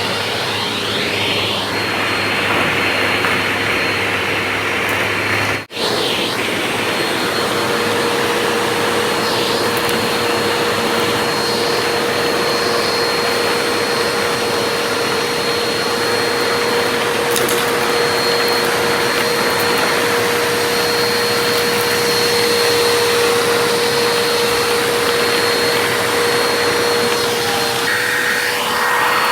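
Vacuum cleaner running steadily with a constant whine, broken by a momentary gap about six seconds in.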